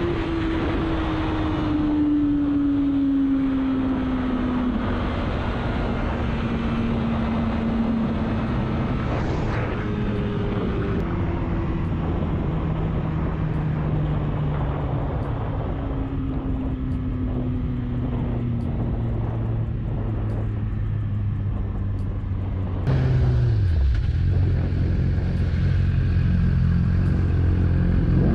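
Motorcycle engine running with road and wind noise, its pitch falling slowly as the bike slows down. After a cut near the end, an engine idles steadily.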